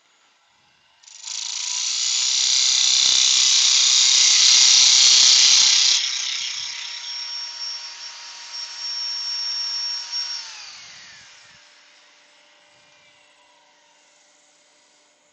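A power tool motor starts about a second in and runs with a loud rushing noise for about five seconds, then carries on more quietly with a steady whine. About ten seconds in it is switched off and winds down, its pitch falling as it stops.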